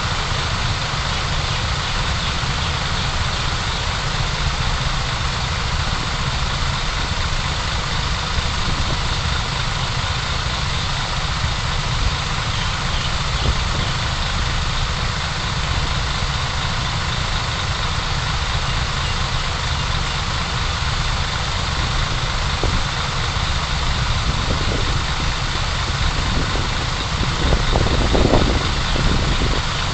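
Steady car engine and road noise, a low rumble under an even hiss, as picked up by a dashcam's microphone. It swells briefly near the end.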